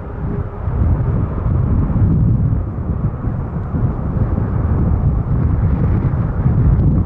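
Boeing 777-200 airliner's jet engines, heard from outside as a loud, steady low rumble.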